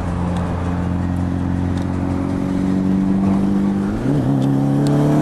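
Car engine accelerating hard at highway speed, heard from inside a moving car over road and wind noise. The pitch climbs slowly, then drops and climbs again about four seconds in.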